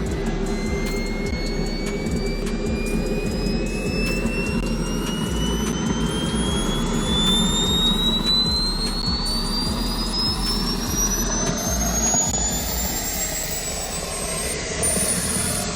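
Radio-controlled model aircraft spooling up: a high whine that rises slowly and steadily in pitch over a continuous engine rumble.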